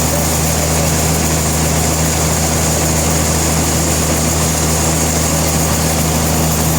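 Sawmill machinery running steadily, a constant low engine hum with a high, even whine above it.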